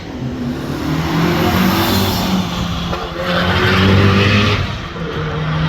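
Rally car engine running hard as the car drives past at speed, the engine note rising and falling, with tyre noise on the road. The sound changes abruptly about three seconds in, and the engine then comes back louder.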